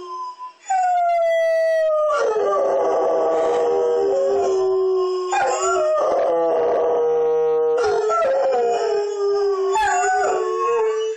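Two dogs howling together in long, drawn-out howls whose pitches slide and overlap, set off by a fire truck siren. After a short break under a second in, the howling goes on and cuts off abruptly at the end.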